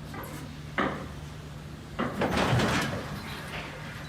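A ship's anchor chain running out: a sharp metallic bang about a second in, then a louder rough rattling for about a second and a half, over a steady low hum.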